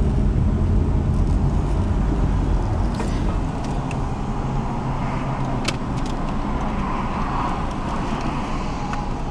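Car engine idling, heard from inside the cabin as a steady low rumble that eases off about two and a half seconds in, with a few light clicks.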